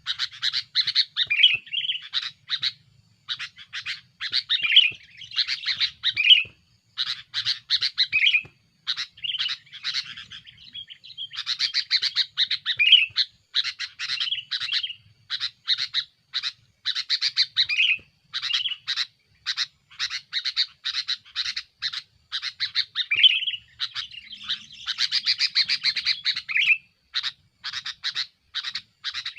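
Male sooty-headed bulbul (kutilang) calling busily: dense runs of short, sharp chirps in quick phrases with brief pauses. This is its noisy, aggressive song aimed at a rival.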